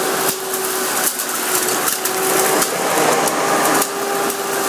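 Hoover bagless twin-chamber vacuum cleaner running with a steady motor whine, crackling and rattling with many sharp clicks as it sucks up dirt.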